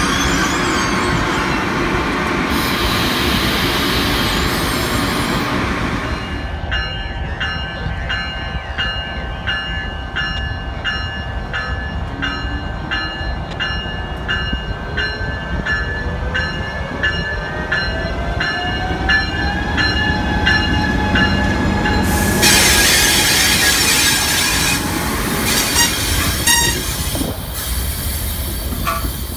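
Passenger train on the rails: rolling wheel and rail noise from a Talgo trainset passing close by, then a bell ringing steadily as a Siemens Charger diesel locomotive approaches, with a low tone rising in pitch under it. About 22 seconds in, loud wheel-on-rail noise returns as the coaches roll past.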